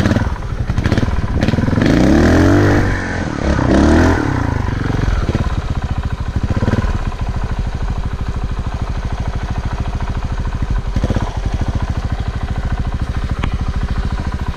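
Off-road motorcycle engine revved up and down twice in quick succession, about two and four seconds in, then settling back to a steady, close-up idle.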